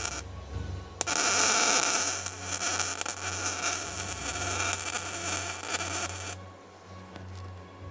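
Welding arc crackling in bursts over a steady low hum: a bead ends just after the start, a second one runs for about five seconds from about a second in, then stops suddenly.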